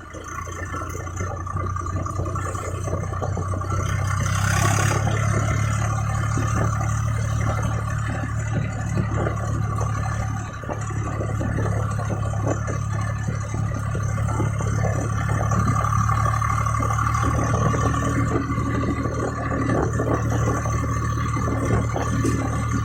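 Swaraj 855 FE tractor's diesel engine running steadily, getting louder over the first few seconds, with a steady higher whine over its low drone.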